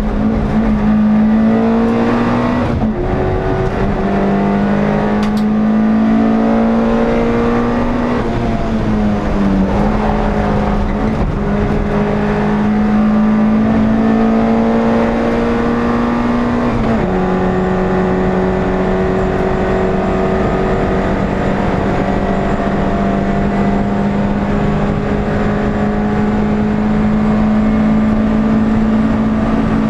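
Onboard sound of an NSU TT's air-cooled four-cylinder engine running hard under racing load, heard from inside the car. Its pitch climbs slowly and drops sharply at gear changes about 3, 8 and 17 seconds in, then holds steady at high revs over road and wind noise.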